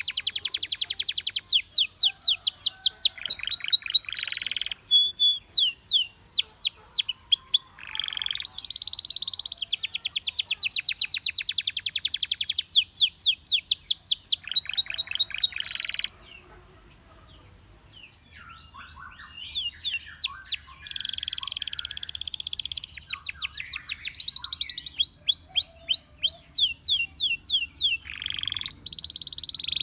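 Canary singing a long, fast song of rapid trills and rolls made of quickly repeated high notes, with a few longer buzzy notes. The song stops for about two seconds just past halfway, then starts again.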